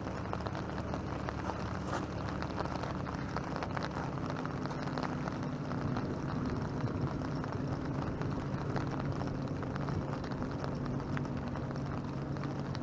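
Light rain pattering steadily on a tarp, a dense run of fine ticks, with a steady low hum under it.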